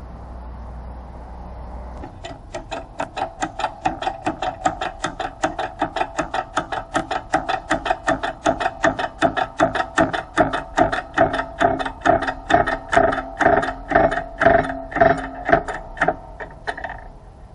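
Rapid, even metallic knocking, about four knocks a second, starting a couple of seconds in and growing louder before stopping near the end.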